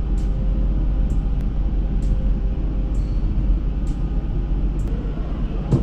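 A vehicle running on the road with a steady low rumble and faint clicks about once a second.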